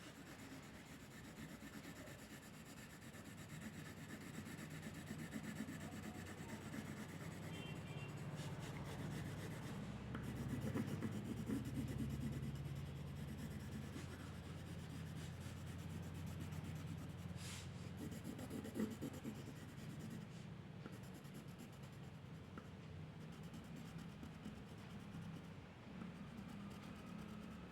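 Drawing strokes scratching and rubbing on paper, continuous and faint, with a low hum underneath.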